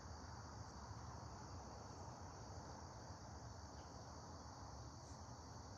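Faint outdoor ambience: a steady, high insect chorus over a low rumble.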